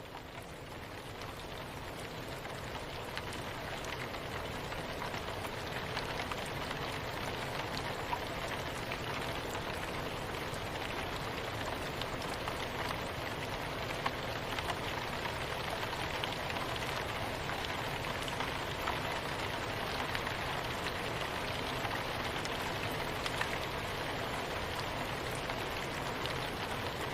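Steady soft rain with fine pattering drop ticks, swelling in over the first few seconds and then holding even.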